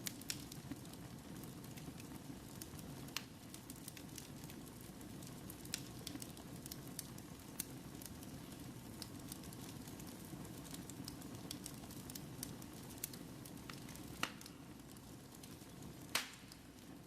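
Wood fire burning in a fireplace: a steady low rumble of flames with scattered crackles and pops, a few louder snaps, the loudest near the end.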